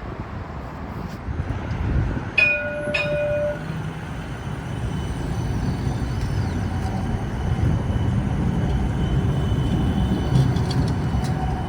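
Streetcar running with a steady low rumble. About two seconds in, a short horn sounds for about a second, and a thin steady whine joins about five seconds in as the sound grows a little louder.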